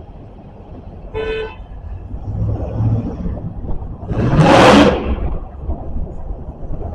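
Low steady rumble of a locomotive running light, pulling no cars. A short single-note horn toot comes a little over a second in. Around four seconds in there is a loud, brief rushing noise, the loudest thing heard.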